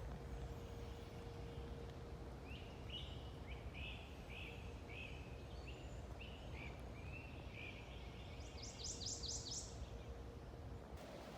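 A songbird sings a series of repeated short notes, ending in a quick run of higher, thinner notes. Underneath is a steady low outdoor rumble with a faint hum.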